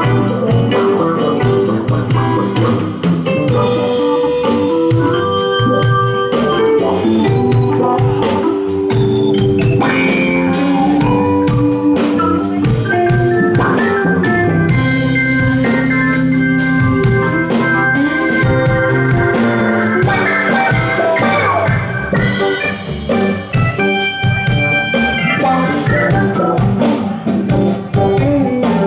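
Live rock band playing an instrumental passage, with an organ holding sustained notes and chords over drums and bass.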